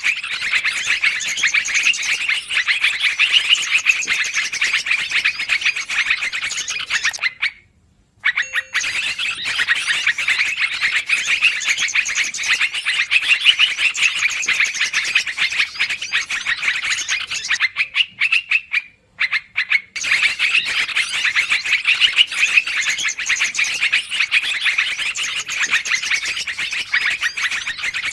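Yellow-vented bulbuls (trucukan) chattering loudly and without pause, a rowdy flock recording used as a bird-catching lure. The chatter cuts out briefly twice, about a third and two-thirds of the way through.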